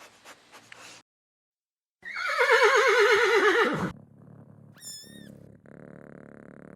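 A horse-like animal neighing: one loud whinny of about two seconds that wavers rapidly and falls in pitch. Faint regular clicks come before it, and a brief high whistle follows.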